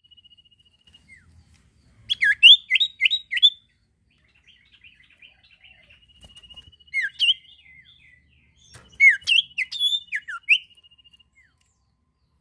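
Small songbird known in Indonesia as the sirtu, singing actively. It gives three bursts of loud, quick whistled notes, each sweeping down in pitch, about four or five to a burst, over a thin, steady, high trill.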